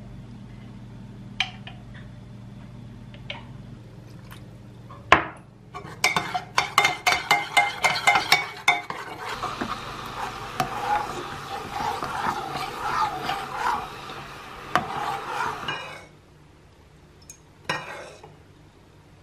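A kitchen utensil beating rapidly against a bowl, then stirring and scraping steadily for several more seconds before stopping. A single sharp knock comes just before the beating starts, and a low steady hum is there at first.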